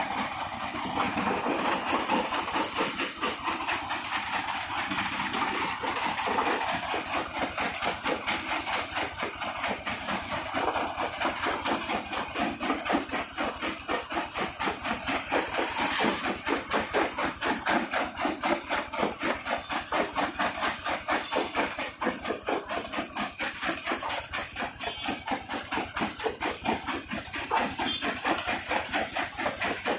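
Heavy brick-breaking machine running, with a rapid, even pounding of about four to five strokes a second over its steady mechanical noise.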